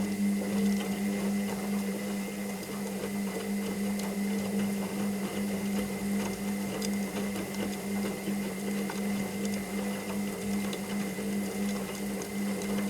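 Washing machine running with a steady electric hum and a thin high whine, over a noisy churn with scattered faint clicks.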